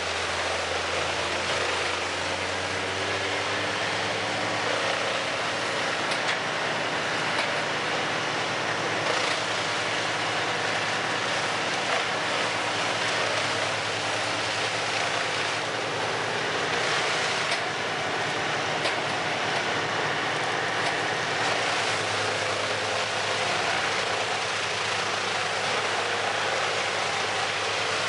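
Large industrial wood chipper's engine running steadily at speed, not yet loaded with wood, a constant low hum under a broad mechanical noise. A few faint knocks come through it.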